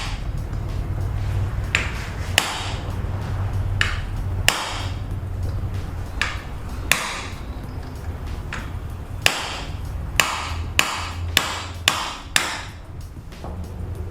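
Hammer blows on a steel punch against a wheel bearing's inner race, ground through at one spot, to crack it off the front spindle: about a dozen sharp metallic strikes with a ringing tail, spaced a second or two apart at first and coming faster near the end.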